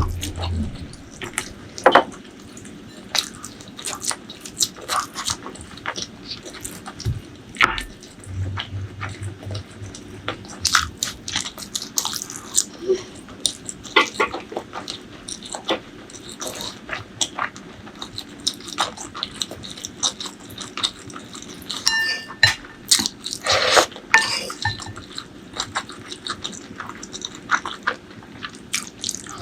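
Close-miked eating sounds: chewing and wet mouth smacks, with many irregular sharp clicks and short crunchy bursts. There is a brief ringing tone a little past two-thirds of the way through.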